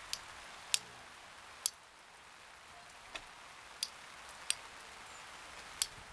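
Steady rain hiss with sharp, single ticks at irregular intervals, about seven in six seconds.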